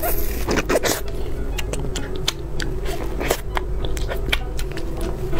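Close-miked bite into a crackle-topped cream puff filled with ice cream, then chewing with crunches and wet mouth clicks. The bite is the loudest part, about the first second.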